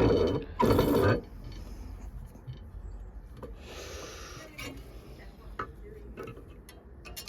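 Light workshop handling of a small metal part: scattered small ticks and clicks, with a brief rasp of rubbing or filing about four seconds in, after a louder knock or scrape near the start.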